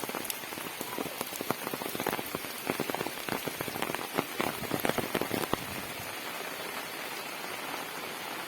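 Rain falling, a steady hiss with many separate drops striking a surface close by; the drop hits thin out after about five and a half seconds, leaving an even hiss.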